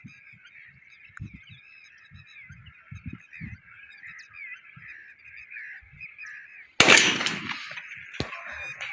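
A perched flock of starlings chattering steadily with many short calls, then a single loud gunshot about seven seconds in, its echo dying away; the one shot brings down four birds.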